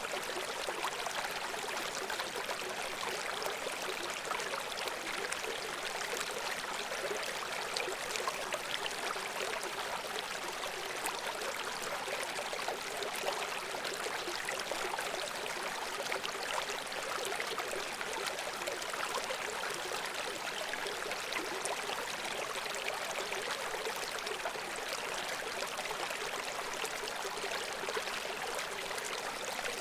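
Babbling brook: shallow water flowing and splashing over stones, a steady rushing hiss full of small splashes and trickles, with little deep rumble.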